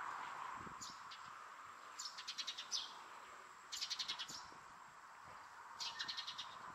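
A small songbird chirping in short bursts of rapid, high notes, four or so bursts a second or two apart.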